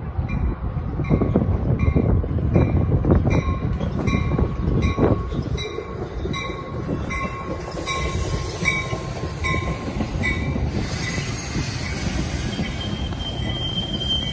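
Metra diesel commuter train passing close by: the locomotive and the steel wheels of its bilevel cars rumble on the rails, loudest a few seconds in, while a ringing ding repeats about twice a second. Near the end the wheels squeal in a steady high tone.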